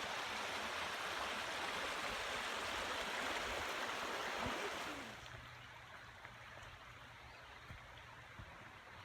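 Creek water rushing steadily, then dropping sharply to a faint background about five seconds in.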